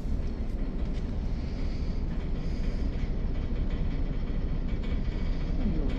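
Steady low rumble of a cruise ship manoeuvring away from a pier, heard from its open deck.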